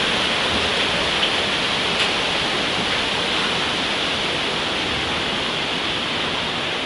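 Waterfall rushing close by: a steady, unbroken roar of falling water.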